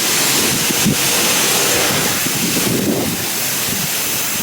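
High-pressure water spraying from a self-service car wash wand onto a car: a loud, steady hiss.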